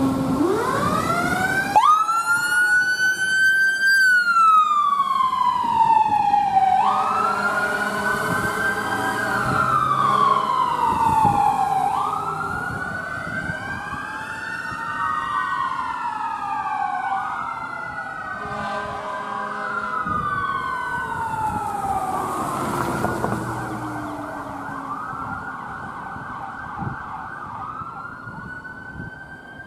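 Emergency sirens of a fire engine and a rescue ambulance on a call, wailing: slow rising and falling tones about every five seconds, with two sirens overlapping out of step. A sharp rise comes about two seconds in, and the sirens grow fainter in the second half.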